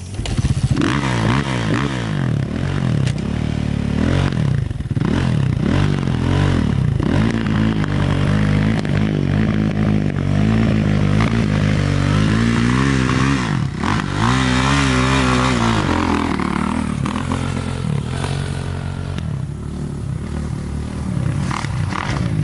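Four-stroke dirt bike engine, a Honda CRF250, revving hard and falling back again and again as the rider works the throttle and gears around the motocross track.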